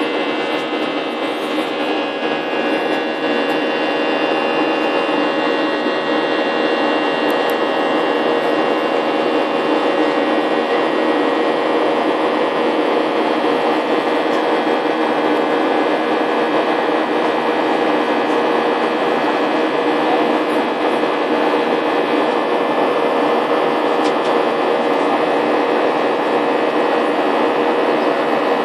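Jet airliner cabin noise in flight: a steady rush of engine and airflow noise with several steady whining tones from the engines running through it.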